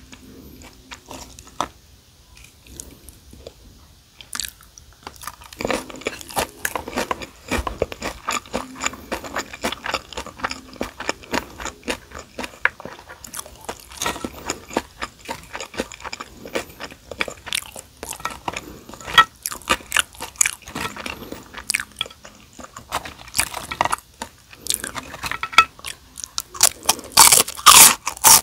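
Eating sounds: chewing of kimchi fried rice, with dense crisp crunching of gim-bugak (fried seaweed chips) setting in after a few seconds. The crunching is loudest near the end.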